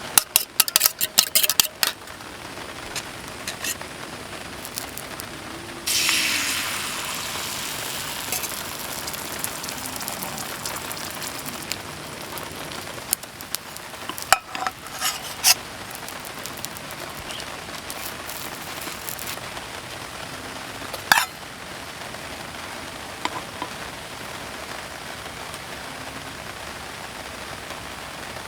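Camp cooking sounds: metal utensils and cookware clinking and knocking, and a sizzling hiss about six seconds in that fades over a couple of seconds. A steady hiss of rain runs underneath.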